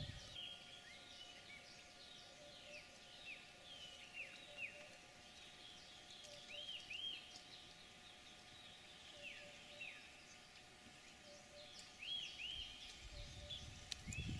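Faint wild birdsong: short arched whistled notes scattered throughout, some in quick pairs, over a faint steady drone.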